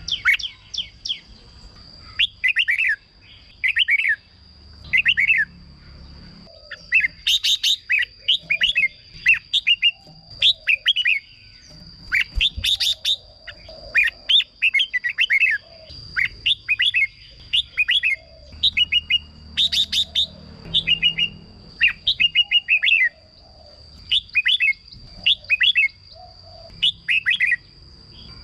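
Red-whiskered bulbuls singing: short, bright, warbling phrases repeated every second or two, with a steady thin high tone running beneath.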